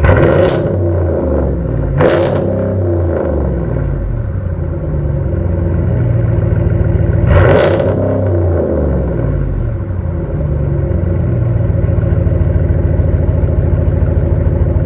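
Ram 1500's 5.7 Hemi V8 with the muffler deleted and the resonators kept, blipped three times (at the start, about two seconds in and about seven and a half seconds in), each rev rising and falling back, then settling to a steady idle near the end.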